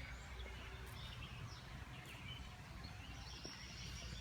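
Faint birdsong from several small birds, scattered short chirps and brief high whistles, over a steady low outdoor rumble.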